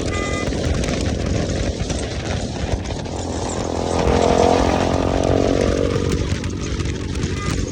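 Motorcycle engine with an aftermarket exhaust running under way: it revs up to its loudest about halfway through, then eases off. A short high beep is heard near the start and again near the end.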